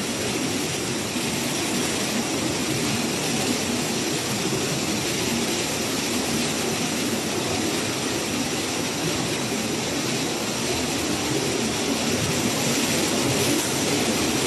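Typhoon wind and heavy rain: a steady, even rushing noise that grows slightly louder near the end.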